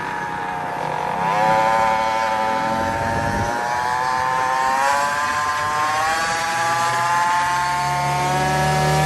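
Small gas engine of a motorbike running at high revs, its pitch jumping up about a second in and then climbing steadily as it accelerates. A deeper engine hum joins near the end.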